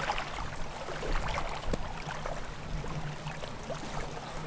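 Wind blowing on the microphone outdoors, with scattered light ticks and a steady low hum underneath.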